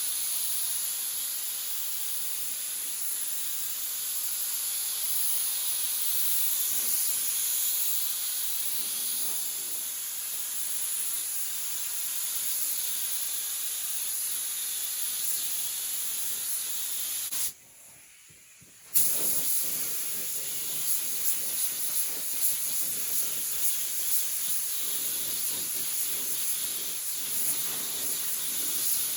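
Compressed-air paint spray gun hissing steadily as primer is sprayed. The spray stops abruptly for a second or two about two-thirds of the way through, then starts again with small uneven surges.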